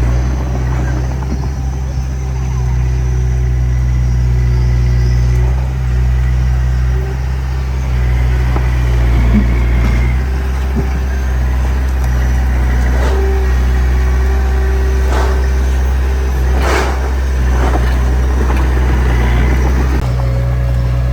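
Small D20P bulldozer's diesel engine running steadily, with a few sharp metallic clanks; the loudest comes about 17 seconds in.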